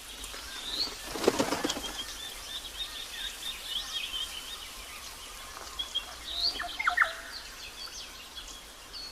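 Flycatchers' wings flapping in a skirmish, a burst about a second in, with short high chirps throughout and a louder pair of calls about seven seconds in.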